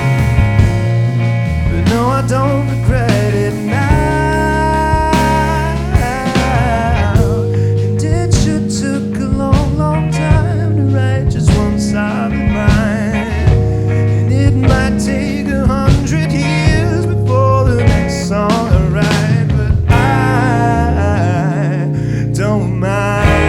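A rock band playing a song, with electric guitar, a sustained bass line and drums.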